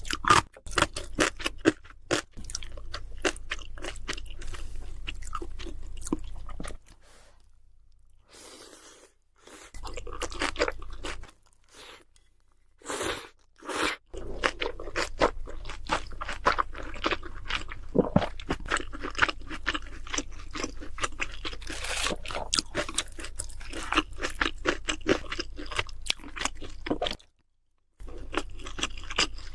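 Close-miked chewing and crunching of crispy fried food, a dense run of irregular crackly crunches with two short lulls in the first half.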